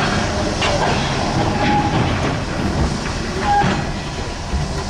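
Mining shovel at work: a steady heavy rumble of machinery with metallic clanks and a couple of short squeals.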